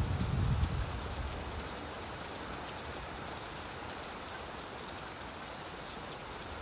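Steady rain falling, an even hiss. A low rumble dies away in the first second or so.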